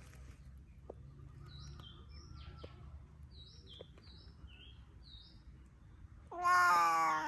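A cat gives one loud meow lasting about a second near the end, with small birds chirping intermittently before it.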